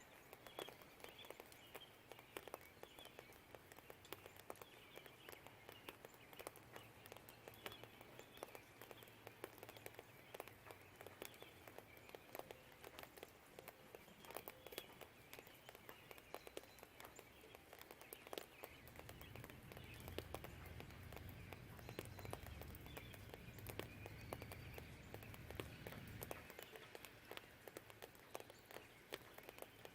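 Faint rain ticking and dripping, with birds chirping in the background. A low distant rumble swells for about seven seconds in the second half, then cuts off.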